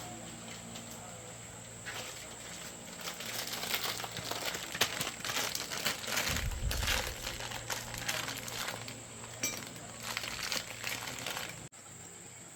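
A quick, irregular run of small clicks, clinks and rattles, like small hard parts being handled, over a faint steady hum; it stops abruptly near the end.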